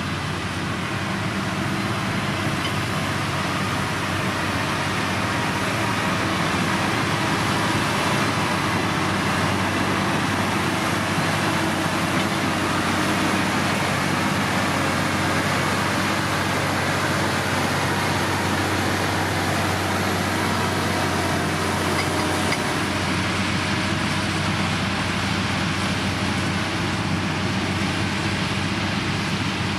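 Heavy diesel engine of road-building machinery running steadily under load.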